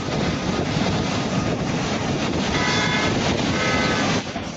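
Steady rumbling roar of a flood wave of water and mud from a collapsed mining reservoir rushing down a mountainside, with a few faint high tones about halfway through.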